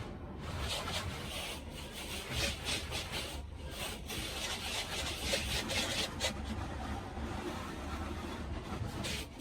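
Automatic truck-wash brushes scrubbing the truck's body: a continuous swishing, rubbing sound with a steady low machine rumble underneath.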